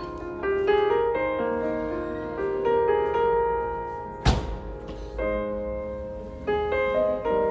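Slow, gentle piano background music, single notes and chords sounding one after another and fading away. A short thump cuts across it about halfway through.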